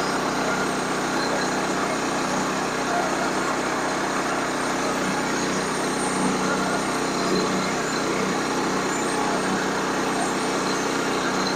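Sawmill running steadily through a log, its engine droning evenly with the hiss of the blade in the wood.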